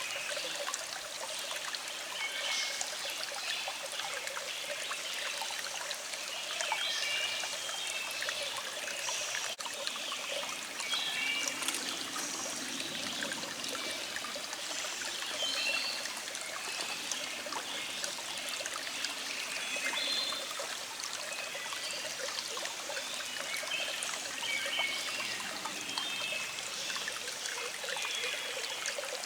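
A small stream trickling and babbling steadily over rocks, with songbirds calling in short, repeated chirps throughout.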